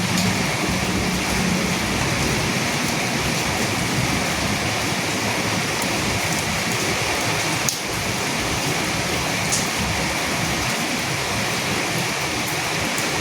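Steady rain falling on a surface, a dense even patter with scattered individual drops ticking. There is one brief sharp click a little past halfway.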